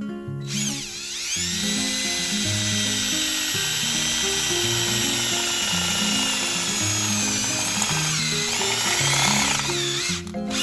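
A power tool on sheet metal whines at a high, steady pitch, dipping briefly as it bites under load about half a second in and again near the end, over background music.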